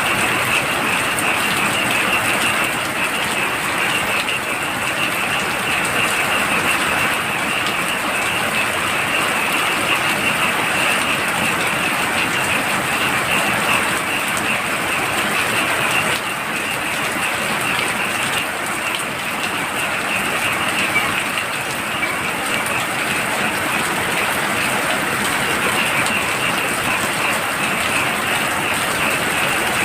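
Heavy rain falling steadily, with a dense chorus of frogs calling in a fast, continuous pulsing trill and a thin steady high tone above it.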